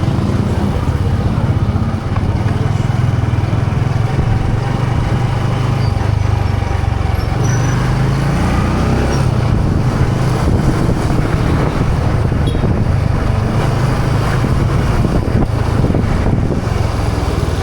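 Yamaha PG1's small single-cylinder four-stroke engine running steadily under way, with wind and road noise over it.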